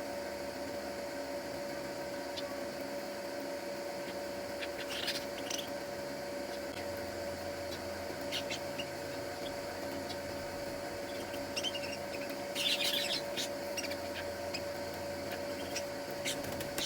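Small birds giving a few short, high chirps over a steady electrical hum.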